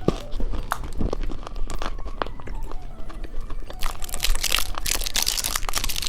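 Plastic candy wrapper crinkling and tearing as a sweet is unwrapped: a few scattered crackles and clicks at first, then dense, continuous crinkling from about two-thirds of the way through.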